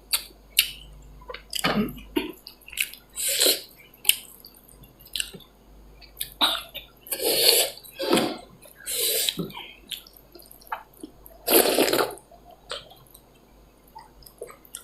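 Close-miked wet eating sounds of dal and rice being eaten: about eight short, loud slurps, with soft mouth clicks in between.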